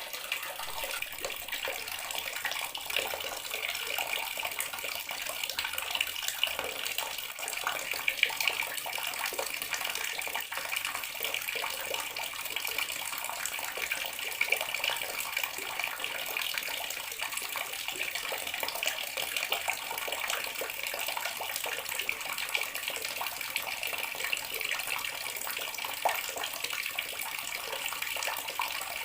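Bathroom water tap running steadily, the stream splashing into the basin with a constant hiss and small irregular splashes.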